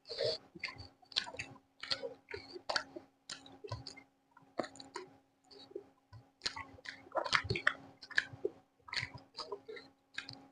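Close-miked chewing: wet mouth clicks and smacks coming irregularly, several a second, over a faint steady hum.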